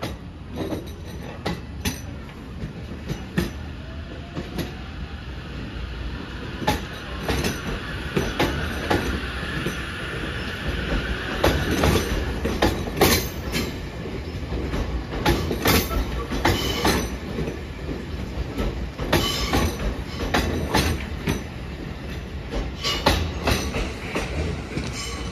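A passing train, its wheels clicking over rail joints in a rapid, uneven run of clacks over a steady rumble. A high whine swells in the middle and fades again.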